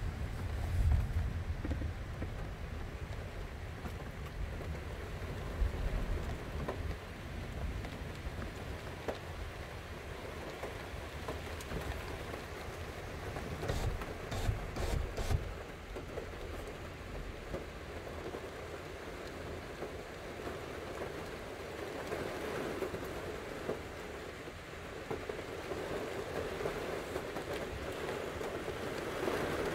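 Steady thunderstorm rain falling on a car, with low rumbles of thunder near the start and again a few seconds in. A few sharp ticks about halfway through.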